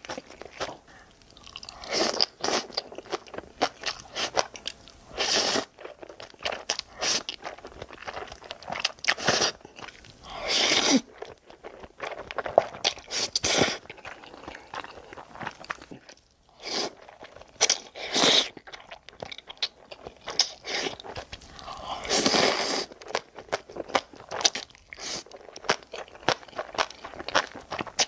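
Close-miked mukbang eating sounds: a person chewing and biting with crisp crunching in quick, irregular bites, broken by a few longer noisy stretches of about a second each.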